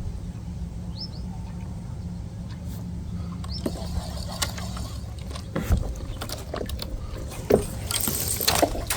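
Wind rumbling on the microphone with a few short bird chirps early, then from about halfway in, knocks and clatter of gear on a kayak and a splash of water near the end.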